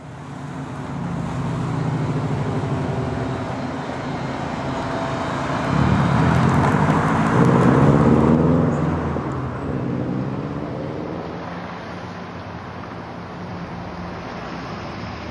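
Road traffic noise with a motor vehicle passing, swelling to its loudest about six to nine seconds in and then fading back to a steady rumble.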